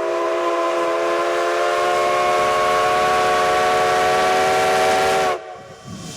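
Steam locomotive whistle sounding one long, steady chord-like blast that cuts off about five and a half seconds in, leaving a fainter hiss.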